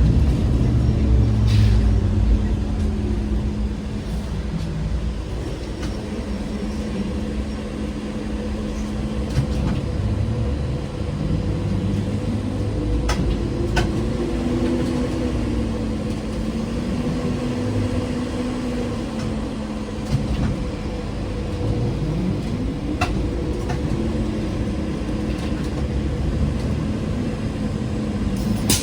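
Ride inside a ZiU-682G trolleybus: a whine from the traction drive rises and falls in pitch as the trolleybus speeds up and slows, over steady running noise. A few sharp knocks and rattles come through.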